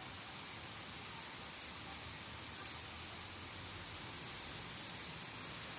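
Rain falling steadily on tree leaves and grass, an even hiss.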